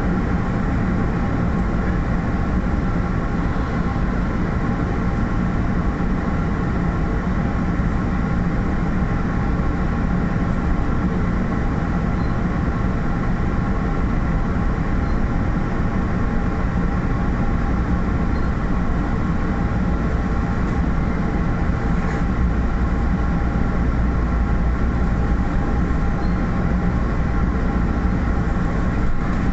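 MBTA commuter rail diesel train running, a steady loud rumble with several steady humming tones layered over it.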